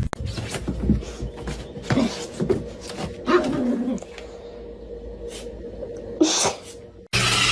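Short noises from a pet, with clicks and knocks between them and a louder short burst near the end.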